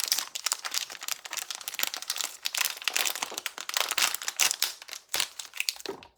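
Blind-box figure packaging crinkling and rustling in the hands as it is torn open: a dense run of crackles, with a few sharper ones near the end.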